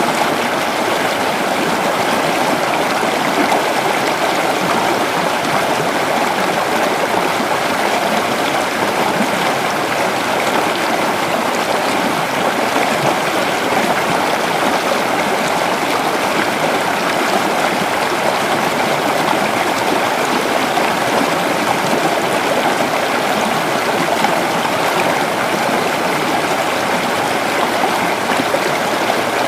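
Creek water flowing over rocks, a steady rushing and burbling with no pauses.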